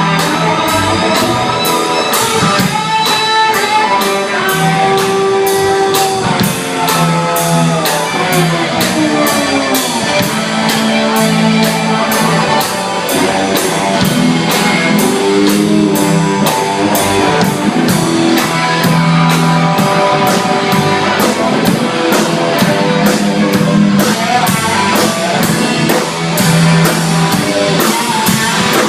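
A live blues band playing, with a guitar lead bending notes up and down over a repeating bass line and a steady drum beat.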